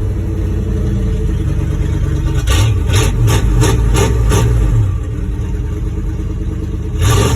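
1988 Dodge W100 pickup's engine running with its exhaust cut open at the transfer case, so it comes out loud and unmuffled. It idles steadily, then about two and a half seconds in gives a quick run of about six short bursts, and rises again near the end.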